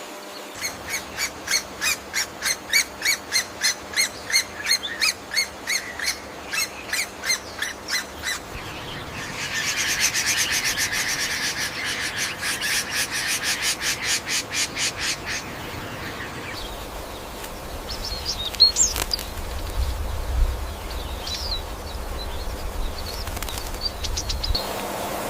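Bird calls: a series of short, high repeated notes about three a second, then a faster, buzzier run of notes, then scattered single chirps near the end.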